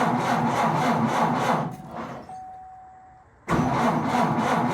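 A car's starter cranks the engine over in two long tries, at a rhythm of about five turns a second, and the engine never catches. This is the sign of a battery too weak to start it. A faint steady chime sounds in the pause between the tries.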